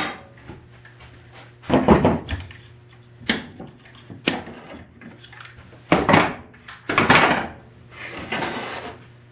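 Handling noise from working on a wooden machinist's tool chest: a series of sharp wooden knocks and clicks with a few short scrapes between them.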